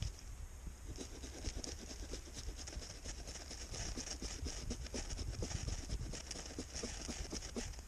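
Ferro rod being scraped again and again to throw sparks into tinder: a rapid run of short, scratchy scrapes.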